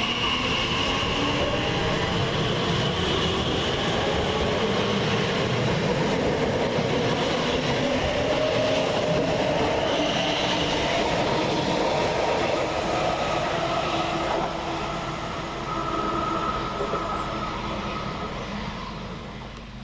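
Class 345 Aventra electric multiple unit pulling out of the station: wheel and rail noise with the traction motors whining, rising in pitch as it gathers speed, then fading over the last few seconds as it draws away.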